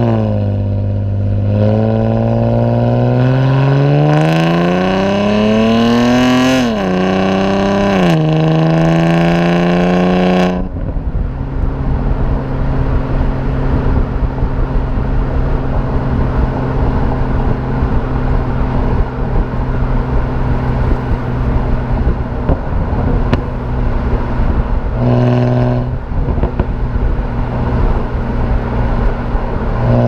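BMW E90 328i's inline-six, fitted with aftermarket headers and a performance exhaust, pulling hard with its pitch climbing. The pitch drops at the automatic gearbox's upshifts. About ten seconds in the throttle lifts and the car cruises with a steady low exhaust drone under wind and road noise, with a brief burst of throttle a few seconds before the end.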